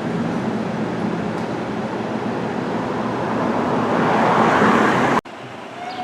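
A heavy fire truck's diesel engine and tyres pass close, the noise swelling about four seconds in before cutting off abruptly. A siren then begins to wail over quieter traffic just before the end.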